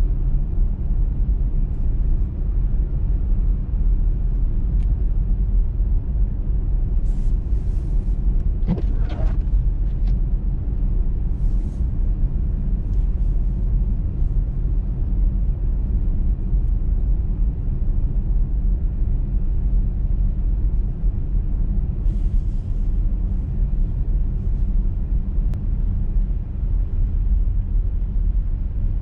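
Steady low road and engine rumble of a car driving at speed on a snowy motorway. Short hisses come about 7, 11 and 22 seconds in, and a brief squeak-like tone about 9 seconds in.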